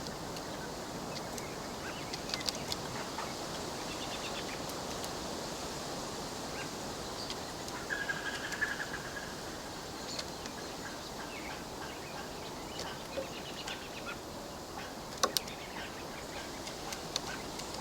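Outdoor ambience: a steady background hiss with scattered sharp clicks and taps, the loudest a quick double tap near the end, and a brief bird call about halfway through.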